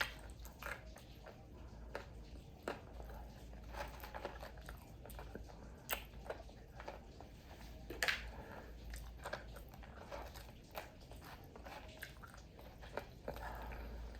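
A person chewing and biting into crunchy fried food, lumpia-wrapped chicken wingettes and fries, with irregular crisp crunches.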